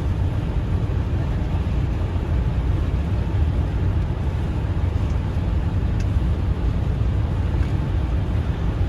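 Car driving on a snowy highway: a steady low rumble of road and tyre noise.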